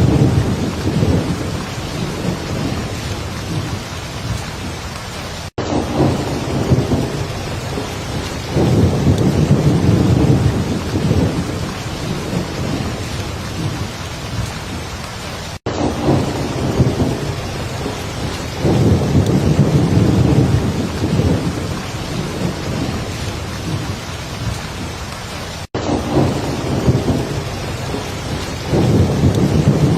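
Heavy rain pouring steadily, with low rolls of thunder swelling up and fading every ten seconds or so. The recording is a short loop that cuts out for an instant about every ten seconds.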